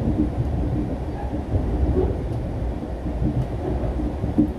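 Low, steady rumble of a Mugunghwa-ho passenger train running on the rails, heard from inside the carriage.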